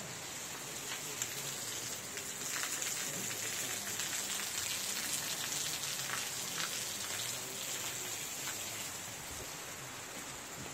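Heavy rain falling steadily, with sharp ticks of close drops now and then. It grows a little louder from about two and a half seconds in and eases near the end.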